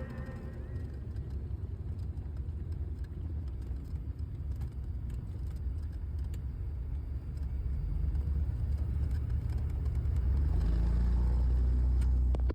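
Low, steady rumble of a Piper PA-27 Aztec's twin piston engines, growing a little louder and steadier near the end.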